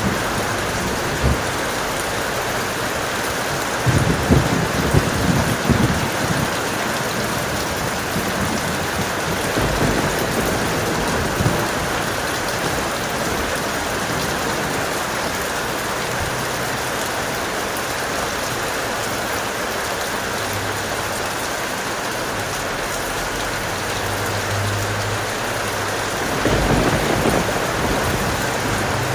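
Steady heavy rain with rolling thunder, rumbling loudest about four seconds in and again near the end.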